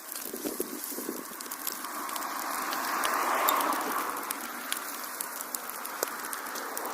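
Wood fire in a fireplace crackling, with scattered sharp pops and a hissing rush that swells about two seconds in and eases off again.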